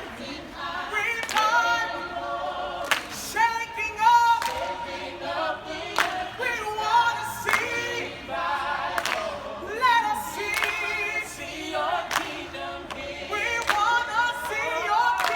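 A group of voices singing a gospel song without instruments, held notes and shifting melody lines.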